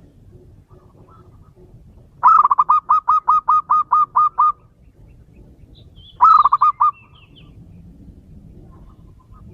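Male zebra dove (perkutut) calling: a fast run of about eleven short, clipped coo notes, then a second, shorter run of about four notes. Faint chirps of other birds in the background.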